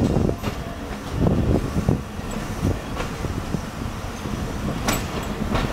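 Passenger train running on the track, heard from an open coach window: a steady low rumble with a few sharp clicks.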